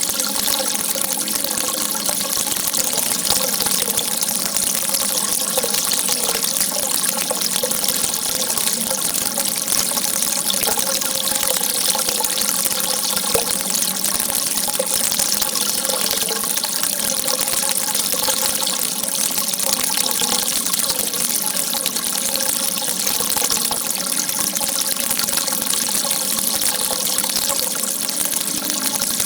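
A jet of water shooting out and splashing in a steady, unbroken rush, with a faint wavering gurgle underneath.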